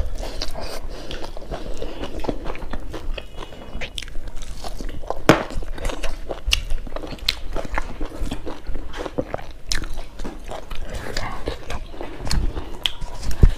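A person chewing a mouthful of rice and curry eaten by hand, with many short wet mouth clicks and smacks.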